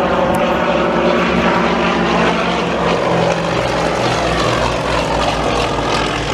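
Propeller-driven light aircraft engine running steadily, its tone dropping a little about three seconds in.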